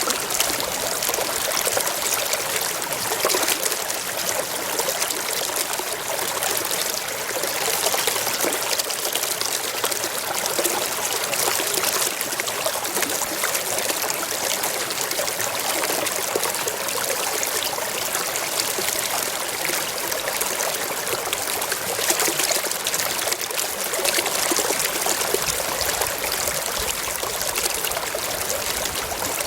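Small forest stream flowing over rocks: a steady babbling and trickling of water.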